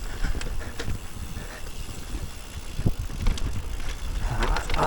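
Electric mountain bike riding down a rough, off-piste trail: tyre noise over the ground and occasional short knocks and rattles from the bike, with wind rumbling on the microphone. The tyre noise grows louder near the end.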